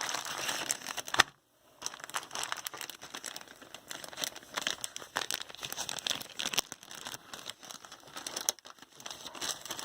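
Plastic packaging bags crinkling and rustling as parts are handled and opened, with a sharp click about a second in followed by a brief pause.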